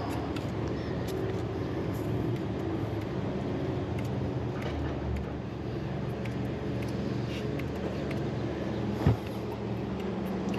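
Steady hum and drone of rooftop air-conditioning equipment running, with one sharp knock about nine seconds in.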